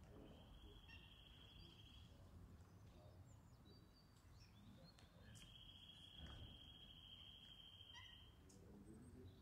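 Faint outdoor background with a low rumble, over which a bird gives two long, even, high trills: a short one near the start and a longer one of about three seconds starting about five seconds in, with a few faint chirps between.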